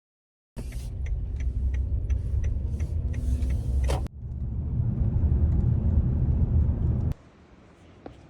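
Kia Sedona minivan driving, a steady low road and engine rumble with scattered light clicks, broken by a brief cut about four seconds in. The rumble drops to a faint hum near the end.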